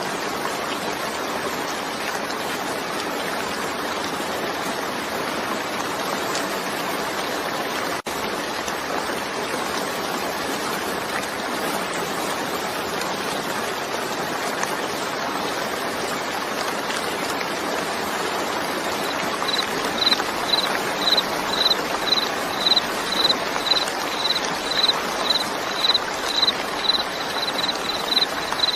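Steady hiss of rain falling. About two-thirds of the way in, a cricket starts chirping on top of it, a short high chirp about twice a second, slightly faster near the end.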